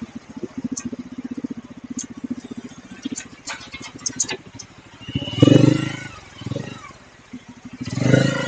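Bajaj Pulsar N250's single-cylinder engine heard through its exhaust, running with a steady low pulse, then swelling louder twice, about five and eight seconds in.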